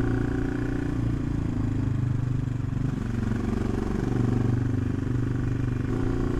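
AJP PR7's single-cylinder engine running under way as the motorcycle is ridden, its note dipping and picking up again a couple of times.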